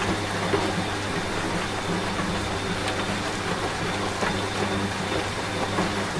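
Washing machine running with a steady low hum, layered with steady rain and scattered raindrop ticks.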